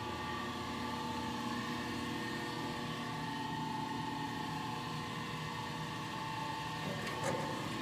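Steady workshop background hum and hiss with a few faint steady tones, no machine running, and a faint click near the end.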